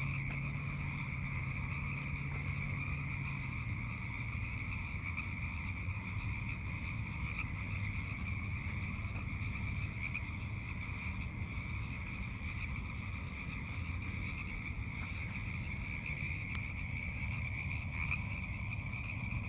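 A dense chorus of many frogs calling at once, merging into a steady, unbroken high-pitched din. A low steady hum runs underneath, dropping slightly in pitch about four seconds in.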